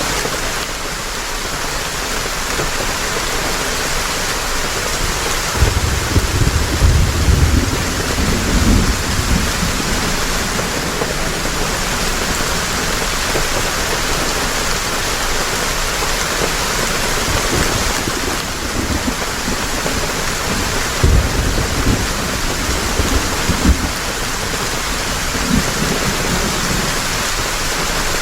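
Heavy rain falling in a steady hiss, with low thunder rumbling twice: a longer roll about six seconds in and another about twenty-one seconds in.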